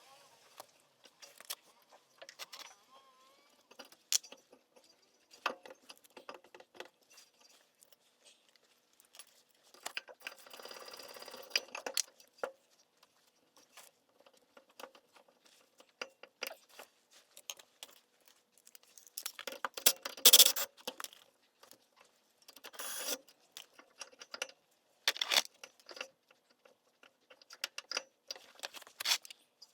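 Hand tools and small metal parts being handled: scattered clicks, clinks and rattles, with a rustling stretch about ten seconds in and the loudest clatter about twenty seconds in.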